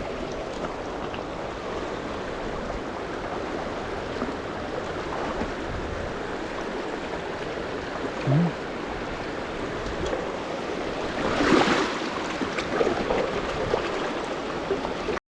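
Shallow river riffle flowing steadily, an even rush of water around the wading angler, with a brief louder surge about eleven seconds in.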